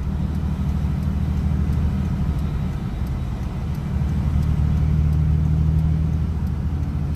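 A vehicle's engine drone and road noise while driving along the road: a steady low hum that swells slightly partway through.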